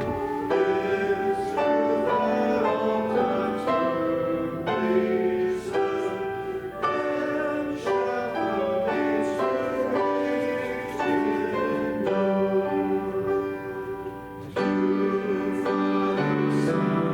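A congregation singing a hymn with piano accompaniment, the chords changing in steady steps.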